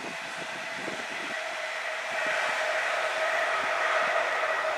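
Electric multiple-unit passenger train running past on the line: a steady rolling rail noise with a held whine from its electric drive, growing louder about two seconds in.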